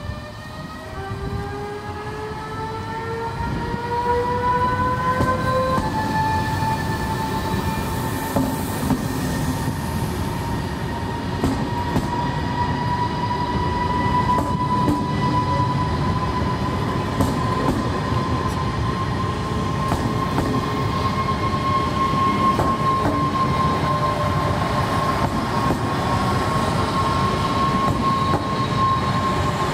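NTV Italo AGV 575 high-speed electric train pulling out of the station. Its electric traction whine rises in pitch over the first few seconds, jumps about six seconds in, then holds and slowly climbs as it speeds up. Under it is the rumble of the wheels, with scattered clicks over the rails.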